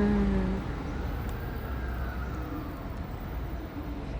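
Low rumble of vehicle or traffic noise that eases off within the first second, leaving a steady background hum.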